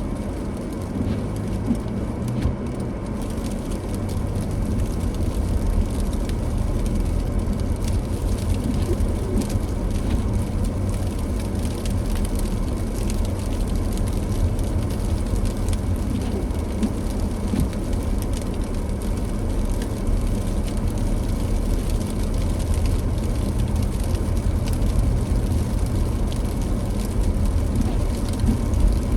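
Car driving on a snowy, wet road: a steady low rumble of road and engine noise, with tyres hissing and crackling through wet snow and slush.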